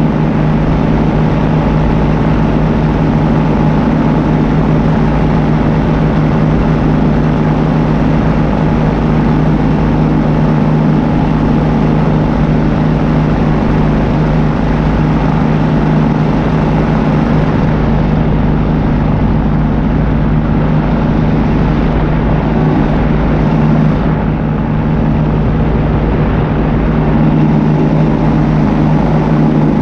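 Paramotor engine and propeller running steadily at cruise power, a constant drone that holds the same pitch throughout.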